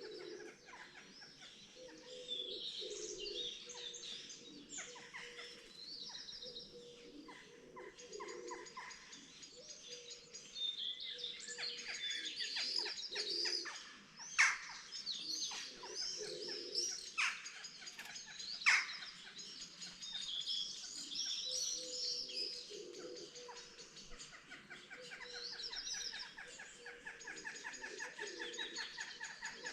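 Morning chorus of many songbirds singing and chirping at once, with overlapping short calls and trills and a fast repeated trill near the end. Two sharp clicks stand out, loudest, about halfway through.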